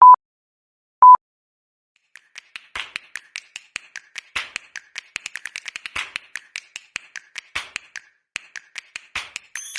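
Two short, loud, single-pitch beeps a second apart, like a countdown, then after a pause a long, uneven run of quick sharp taps, several a second.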